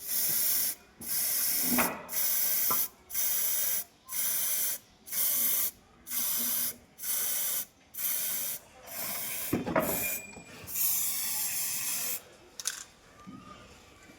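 A sprayer hissing in short, evenly spaced bursts about once a second, ten or so in a row, then one longer spray about 11 seconds in. A few knocks sound around the tenth second and again shortly after the long spray.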